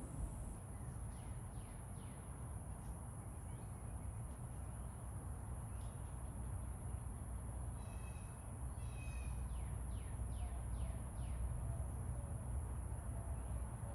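Birds calling: short falling chirps and a couple of quick trills about two-thirds of the way in, over a steady high insect drone and a low rumble.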